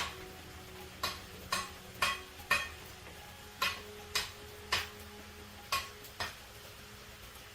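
Light metallic clinks of a tool striking or tapping metal, about two a second in short runs with brief pauses, over a low steady hum.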